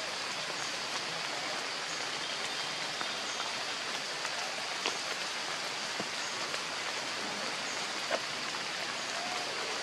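Steady hiss of light rain, with a few scattered faint taps of drops.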